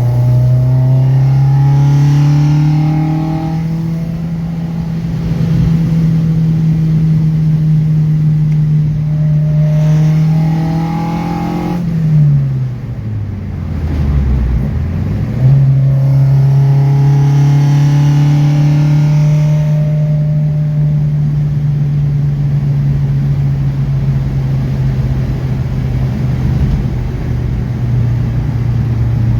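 Car engine running at steady revs, then dropping off about twelve seconds in and picking back up sharply a few seconds later before holding steady again.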